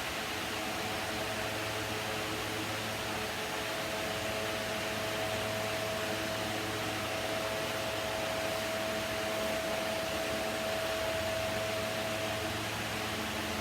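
Electric fan running steadily: an even whooshing hiss with a low hum and a faint whine.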